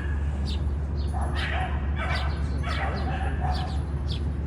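A dog barking several times in short bursts, with small birds chirping over a steady low rumble.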